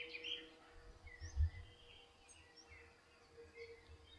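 Faint birdsong: scattered short chirps and quick whistled glides from birds in the garden, over low outdoor background noise, with a brief gust of wind on the microphone about a second and a half in.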